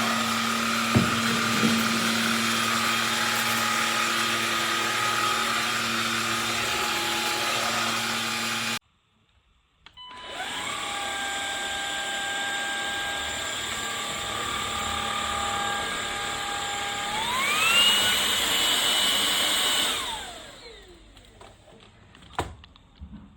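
MONSGA cordless stick vacuum cleaner's brushless motor running steadily with a whine. It stops for about a second, starts again, and about seventeen seconds in its whine rises to a higher pitch as the motor speeds up. It is then switched off and winds down with a falling whine, followed by a few clicks.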